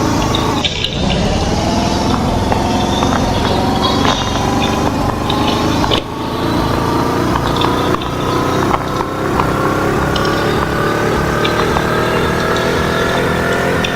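Road vehicle driving with heavy road noise, its engine tone climbing slowly and steadily as it accelerates. There is a short drop in level about a second in and again around six seconds.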